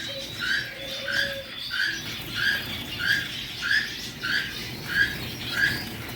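A cage bird repeating one short chirp at a steady pace, about one and a half calls a second.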